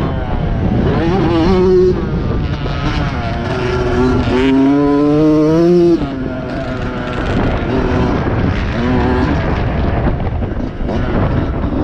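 Motocross bike engine revving up and down as it is ridden. The pitch climbs steadily for a few seconds and then drops sharply about six seconds in, with shorter rises and falls before and after.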